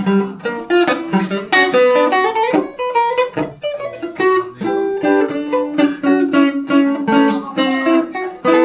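Electric guitar played solo, a Van Zandt Telecaster through a Roland JC-120 amp, picking a busy run of single notes mixed with chords.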